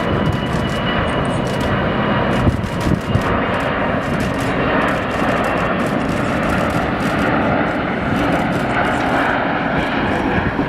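Jet airliner engines running, a loud steady rush with faint steady whining tones above it.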